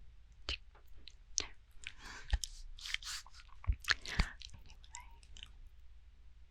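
Close-miked ASMR mouth sounds: wet lip smacks and tongue clicks in an uneven string, a few of them with a deep, bassy thump.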